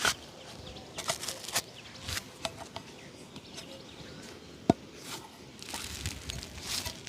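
Shoe-shining work sounds: short, scattered brush strokes and light taps on a shoe, with a single sharp click a little under five seconds in.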